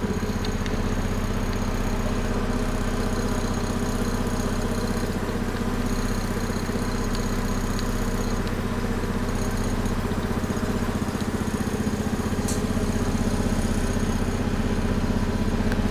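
An engine running steadily at a constant speed, with an even, fast pulsing.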